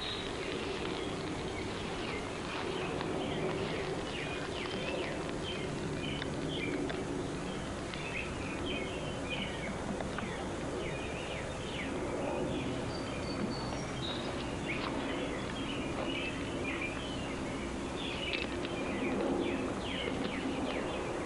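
Birds chirping and calling again and again over a steady background rush of outdoor noise.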